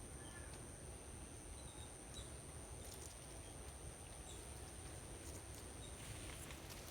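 Faint outdoor ambience: a steady high-pitched insect drone over a low rumble, with a few short, faint bird chirps and soft clicks.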